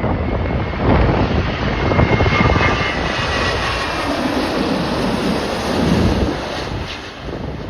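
Jet airliner arriving to land, its engines giving a whine over a deep rumble as it passes, with gusty wind buffeting the microphone; the sound eases off near the end.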